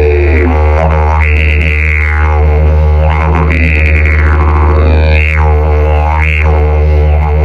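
Hemp didgeridoo in the key of E, with a mouthpiece widened to 35 mm, played as a steady low drone, its tone brightened and closed again by mouth shaping in wah-like sweeps every second or two.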